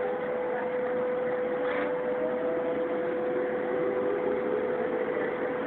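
Lisbon Metro train running, a steady rolling rumble with a constant whine, and a second fainter whine rising in pitch in the latter half.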